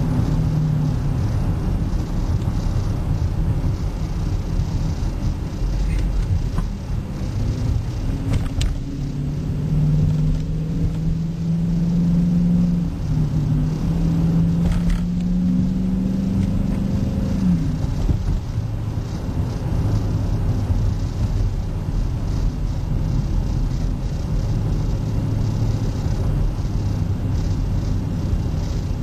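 5.7-litre Hemi V8 of a 2008 Dodge Charger R/T with a Zoomers exhaust, heard from inside the cabin while driving: a steady low exhaust rumble. The pitch falls right at the start. From about 9 seconds in, a strong steady drone is heard; it steps once and then stops suddenly at about 17 seconds.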